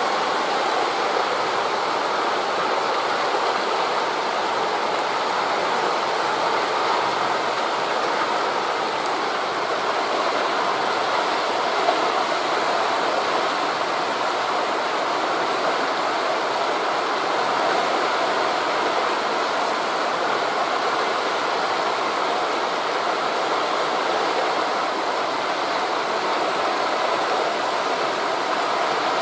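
Steady, even rushing of wind through forest leaves, blended with surf from the sea below, with no rise or fall in level.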